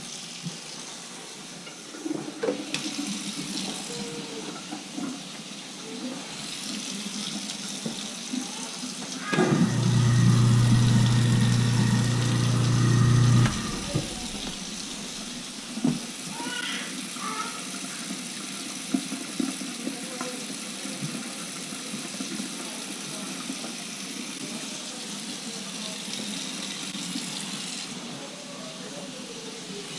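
Water rushing steadily, with a few knocks. About a third of the way in, a sump pump's electric motor hums loudly for about four seconds, then cuts off.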